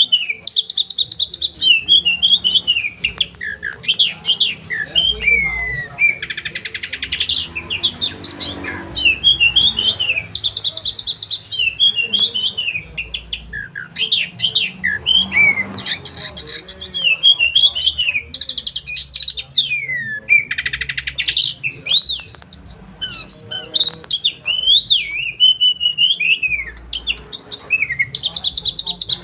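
Oriental magpie-robin (kacer) singing continuously and loudly: sharp chirps and falling whistled notes, broken every few seconds by fast rattling runs of rapid-fire repeated notes.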